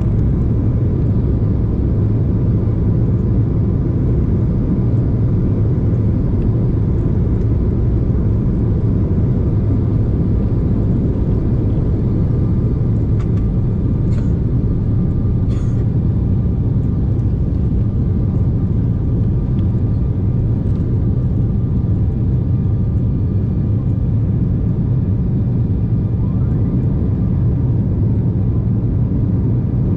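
Steady cabin noise inside a KLM Cityhopper Embraer jet during take-off and climb: a loud, even, low rumble of turbofan engines and airflow, with a couple of faint clicks about halfway through.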